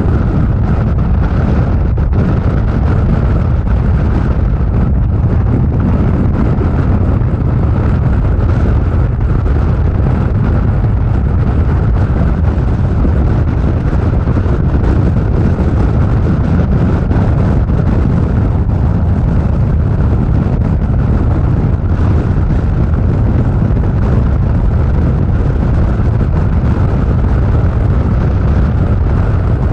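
Motorcycle riding at freeway speed: a loud, steady, low engine rumble mixed with wind rushing over the microphone.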